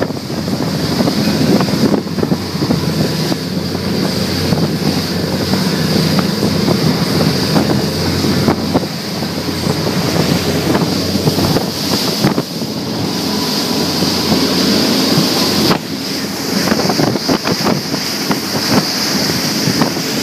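Twin Yamaha 350 outboards running steadily as the boat runs on the water, with a steady drone under a rush of wind on the microphone and water noise.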